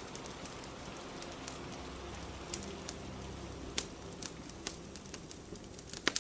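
Steady rain with a crackling fire: scattered sharp pops over the rain's hiss, with a cluster of louder pops near the end.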